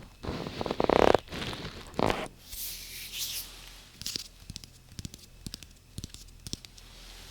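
Close-miked ASMR handling sounds: a few loud rustling or scraping bursts, the loudest about a second in, then a short hissy rustle and scattered light taps and clicks.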